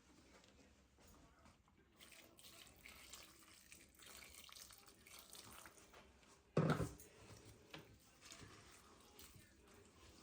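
Water running from a tap into a sink, faint and steady, starting about two seconds in. One loud knock sounds about two-thirds of the way through.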